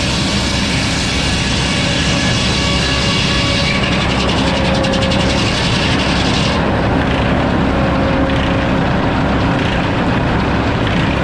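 Sawmill running and sawing a hardwood log: a loud, steady mechanical drone whose high hiss fades about four and again about seven seconds in.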